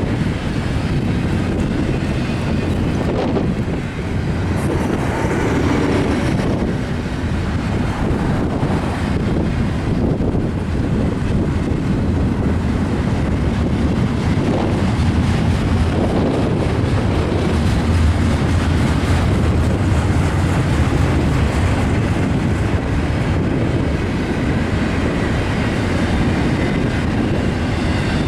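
Norfolk Southern freight train rolling past, its cars' wheels on the rails making a steady, loud rumble.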